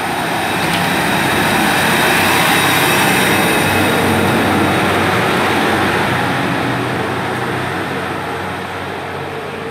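Diesel multiple unit pulling out of the platform under power, its engine and wheel noise swelling over the first two or three seconds and then slowly fading as it draws away.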